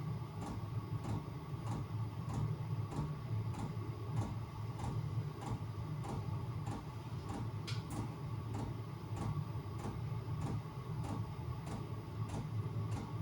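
Chinese diesel air heater running: its fuel pump ticks steadily, about one and a half times a second, over the steady low hum of the heater's fan.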